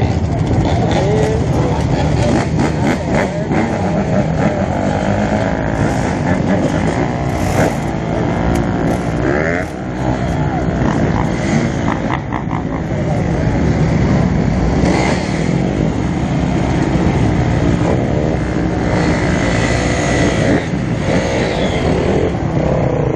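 Several dirt bike engines running and revving together, their pitch rising and falling over and over as riders open and close the throttle.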